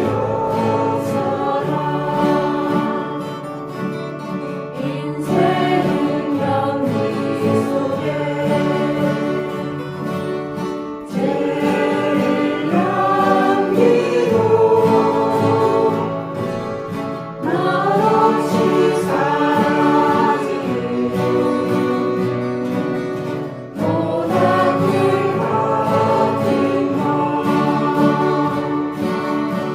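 A group of beginner students singing a Korean folk song in unison while strumming acoustic guitars.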